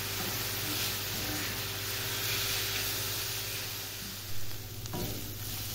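Diced onion and ground chicken frying in an oiled pan, giving a soft steady sizzling hiss, with a brief louder noise about four seconds in.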